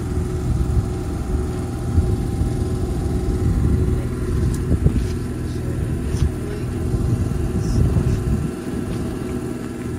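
A vehicle engine idling with a steady low rumble, with a few scuffing footsteps on wet gravel over it.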